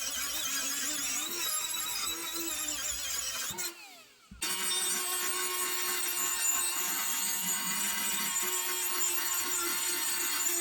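Power tool polishing the rusty iron of an antique ice claw, running steadily, with a break of under a second near the middle.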